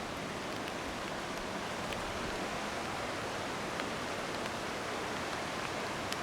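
Steady rain falling, an even hiss with a few scattered drops ticking.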